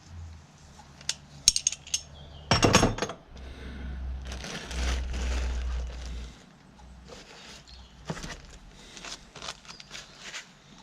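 Loose steel bolts and tools clinking and clattering as they are handled, with a louder rattling burst about two and a half seconds in and scattered light clicks after.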